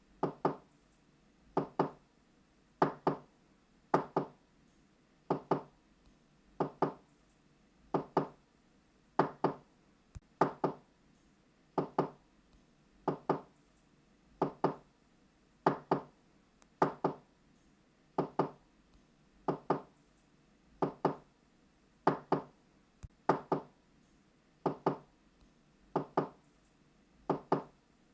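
Knocking on a door, a steady string of double knocks (knock-knock), one pair about every second and a quarter.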